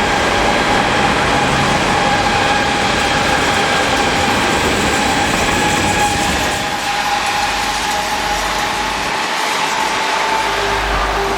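A train passing close by: loud, steady running noise of wheels on rails with a steady high-pitched whine over it, easing a little past the middle.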